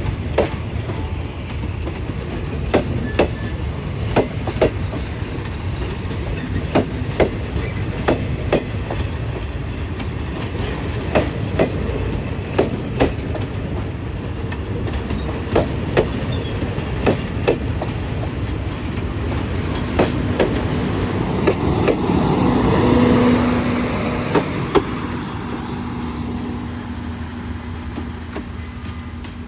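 Train wagons rolling past, their wheels clacking over the rail joints in irregular pairs of clicks over a steady rumble. The sound swells about three-quarters of the way in, where a steady low hum joins it.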